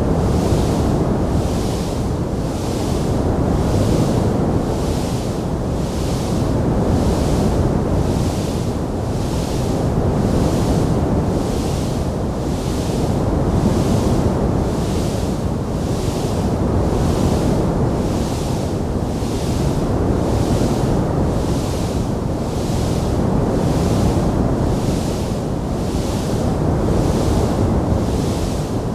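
Steady rushing noise of a wood fire burning in a fireplace, with no distinct crackles or pops. A fainter hiss on top pulses about once a second, and the whole sound swells and fades every three to four seconds.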